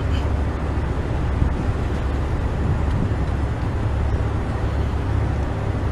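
Steady low rumble of a truck's diesel engine idling.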